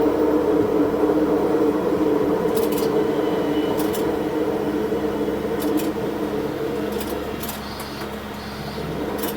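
Diesel railcar running, heard from the cab and played back at double speed, so its steady engine drone is pitched up. A few short clicks come through the drone, and it eases off somewhat in the second half.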